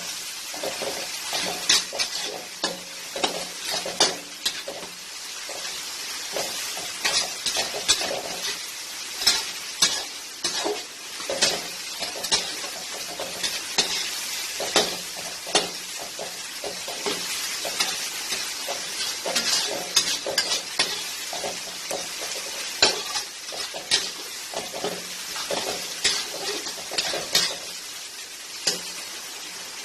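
Onions and tomatoes sautéing in oil in a pan, sizzling steadily while being stirred, the utensil scraping and clicking against the pan many times.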